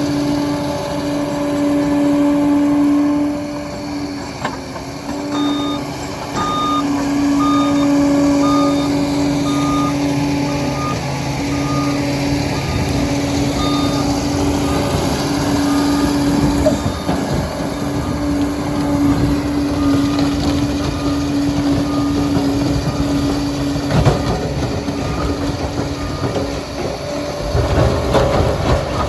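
Liebherr PR 746 crawler dozer's diesel engine running steadily while its reversing alarm beeps, a little under two beeps a second, from a few seconds in until near the end. The machine gets louder and rougher in the last couple of seconds.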